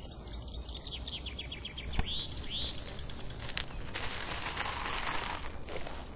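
Birds chirping over a steady outdoor background, with rapid high chirps at first and two short arched calls a little after two seconds. A sharp click comes about two seconds in, and a hissing noise rises from about four seconds to five and a half.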